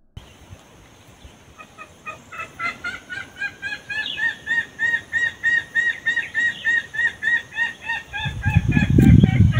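A bird calling a long run of short arched notes, about three or four a second, swelling and then fading. A loud low rumbling noise takes over near the end.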